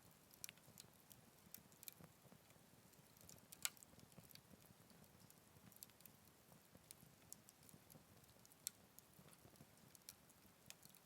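Small wood fire crackling faintly in a Picogrill 398 fire stand: scattered sharp pops over a low hiss, the loudest crack about three and a half seconds in.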